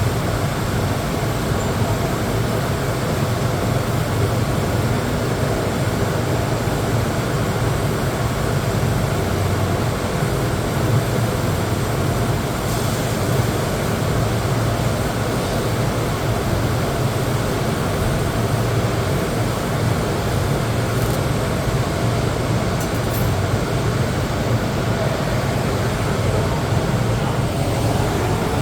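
TIG welder running on mild steel, a steady hum with an even hiss that holds the same level throughout.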